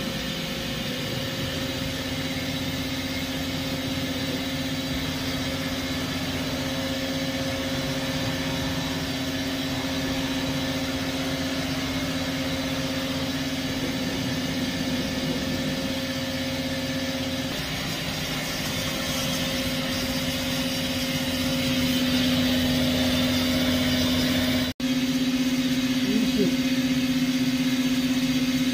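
Doosan PUMA V550 vertical CNC lathe running, a steady machine hum with a held low tone that grows louder about three-quarters of the way through. The sound cuts out for an instant near the end.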